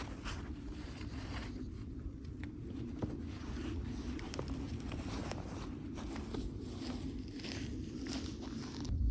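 Irregular rustling and light clicks of gear being handled, over a steady low background rush.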